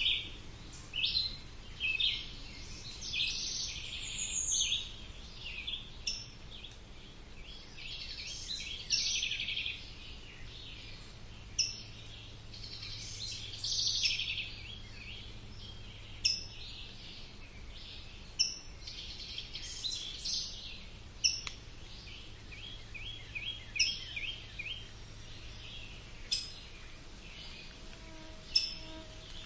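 Several songbirds singing and calling together in a woodland chorus, with short sharp high notes every couple of seconds and a run of quickly repeated chirps about two-thirds of the way through.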